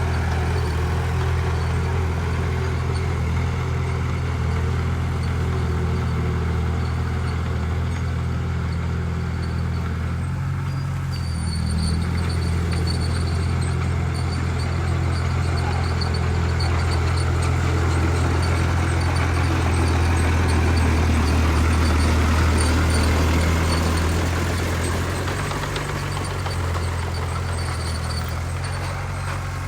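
Heavy diesel engine of earthmoving machinery running steadily under work, getting louder for a few seconds past the middle.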